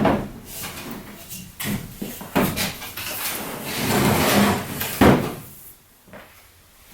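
Kevlar canoe hull being handled and flipped over: knocks and scraping, with the loudest thump about five seconds in, after which the sound dies down.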